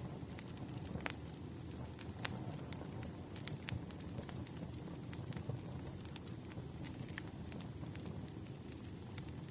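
Firewood burning with irregular sharp crackles and pops over a steady low rush of flame. A faint high thin whistle comes in about halfway through.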